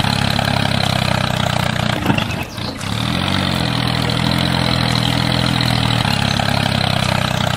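Tractor-style engine running steadily, with a brief dip and recovery in pitch about three seconds in.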